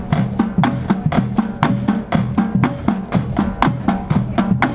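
Marching band drumline playing a cadence: quick, steady drum strokes with pitched low drums under sharp stick and snare hits.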